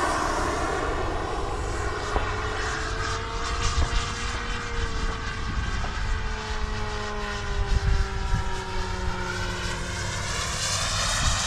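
Radio-controlled model airplane flying by, its motor and propeller whine sliding slowly down in pitch as it moves away, then rising again near the end as it comes back around.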